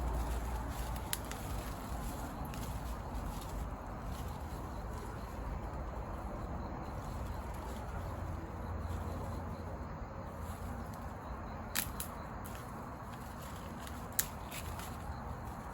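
Steady outdoor background noise with a low rumble, broken by a few sharp pops: one about a second in and three more near the end.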